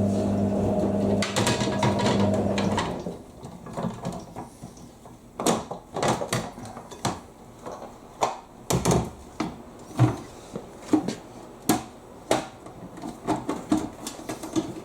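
Plastic tumble-dryer door parts being handled and fitted around the round door glass: a string of separate clicks and knocks. A steady low hum runs for about the first three seconds and then stops.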